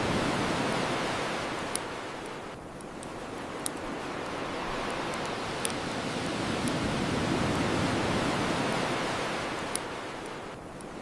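Ocean waves washing on a shore, the surf swelling and falling away slowly, with a few sharp pops from a crackling wood fire.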